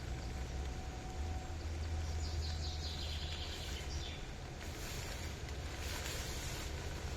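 Outdoor woodland ambience with a steady low rumble. A bird gives a quick trill of repeated high chirps about three seconds in, followed by a couple of seconds of rustling.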